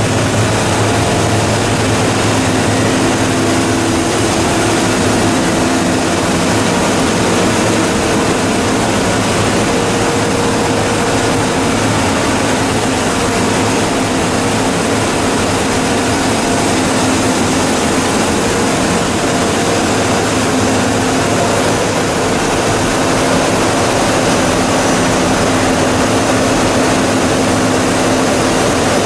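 Two-stage plastic recycling extruder line running: a steady, loud machine drone with a constant hum and no breaks.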